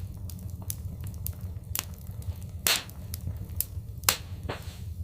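Fireplace fire crackling: irregular sharp pops and snaps over a steady low rumble, with a louder, longer crackle near the middle and another about four seconds in.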